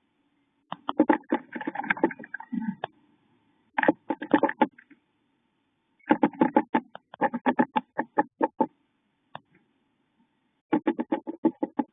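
Bird inside a wooden nest box making rapid rattling bursts of sharp taps, about eight to ten a second, in several runs of a second or two with short pauses between them.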